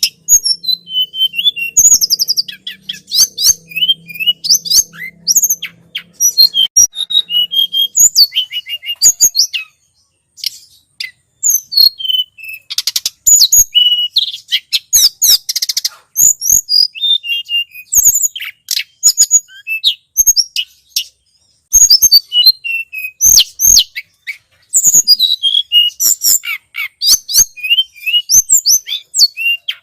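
Tledekan gunung (a mountain flowerpecker) calling: dense runs of quick, high-pitched chirps and thin twittering notes, with brief pauses about ten and twenty-one seconds in. A faint low hum lies under the first eight seconds.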